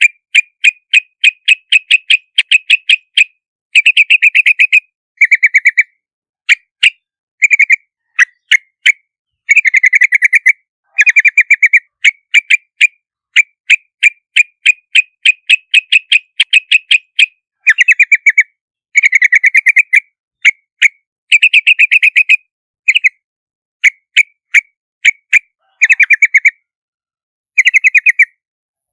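Yellow-vented bulbul calls: runs of short, quick repeated notes, about five a second, broken by brief pauses.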